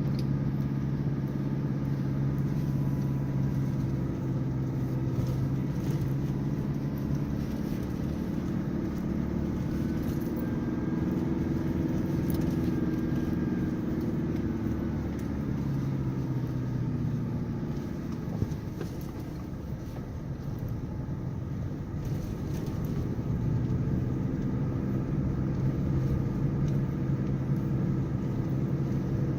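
Off-road vehicle's engine running steadily while driving down a mountain track, its pitch sagging a little past halfway and then climbing back up.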